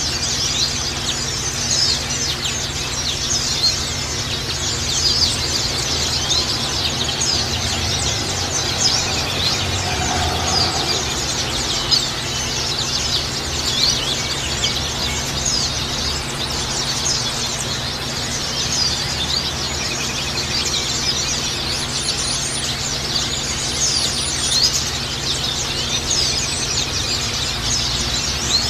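A dense chorus of white-eyes (pleci) singing, many short high chirps and trills overlapping without a break, over a steady low rumble.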